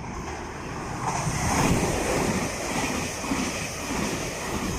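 An electric passenger train passing close by, a rushing noise of wheels and air that swells about a second in, peaks around two seconds in and then eases off.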